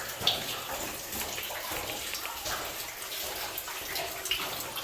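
Feet wading and splashing through shallow water in a flooded mine passage, with irregular sloshes.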